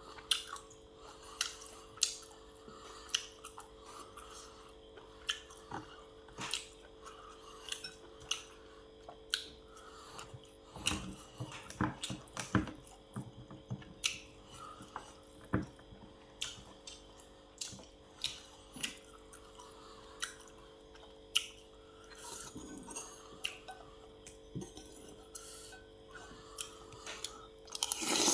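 Cutlery clinking repeatedly against a plate or bowl while eating, a sharp clink every second or so, over a faint steady hum.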